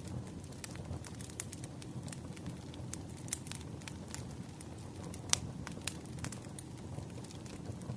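Campfire burning: a steady low rumble of flames with scattered sharp crackles and pops of burning wood, the loudest pop a little past five seconds in.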